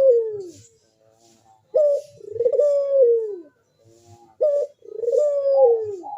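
Crossbred puter dove (domestic collared dove) in full breeding condition, cooing its repeated call: a short coo followed by a longer coo that falls in pitch at its end, about every two and a half to three seconds.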